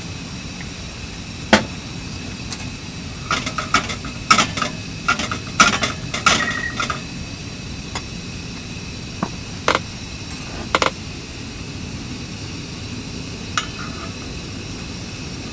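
Metal cookware and utensils clinking and clattering, a quick cluster of knocks with short ringing tones a few seconds in and a few single clicks later, over a steady hiss.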